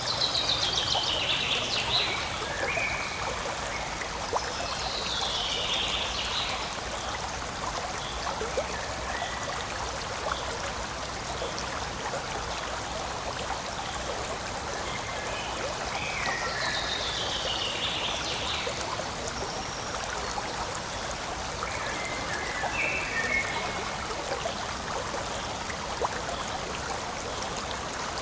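Forest stream flowing and trickling steadily over stones. Short falling chirp phrases, likely a songbird, recur several times over the water.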